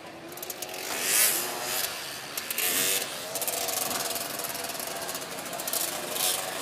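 Three-wheeler ATC engines running and revving, the engine note wavering with the throttle, with louder surges about a second in, around three seconds in and near the end.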